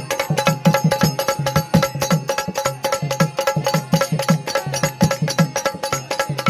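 Instrumental folk music: a fast, steady dholki drum rhythm, with deep pitched strokes and sharp slaps, under held keyboard melody notes.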